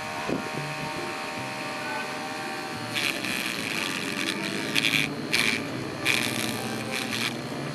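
A small electric motor on a homemade model chaff cutter running with a steady hum. From about three seconds in, a run of loud rasping bursts broken by short gaps.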